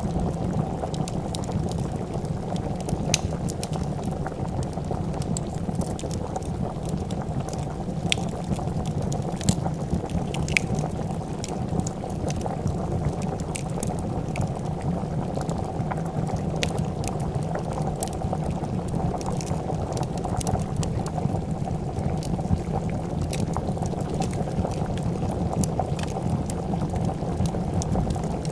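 A pot of soup boiling, a steady dense bubbling, with scattered sharp crackles and pops from a wood fire at irregular moments.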